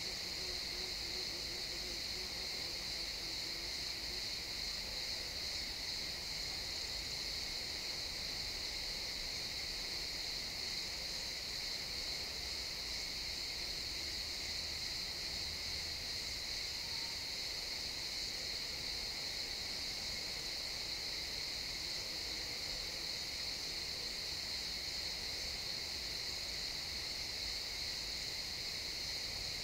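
A chorus of crickets chirping in a dense, continuous trill, a steady high-pitched ring that does not let up.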